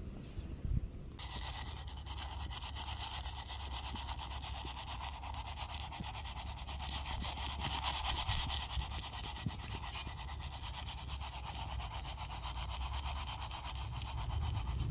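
Popcorn kernels cooking in a pot over a small wood fire: a dense, steady crackling sizzle of many fine rapid clicks that starts abruptly about a second in.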